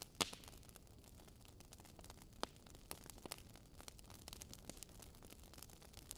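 Campfire crackling, faint: irregular sharp pops and snaps of burning wood over a soft hiss, the loudest pop just after the start.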